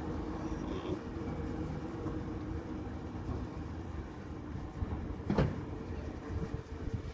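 Fireworks display: a continuous low rumble, with one sharp firework bang about five seconds in.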